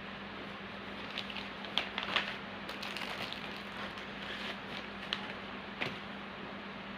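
Scattered small clicks and rustles of bird leg rings and packaging being handled during packing, bunched between about a second and six seconds in. Under them runs a steady hiss with a low hum.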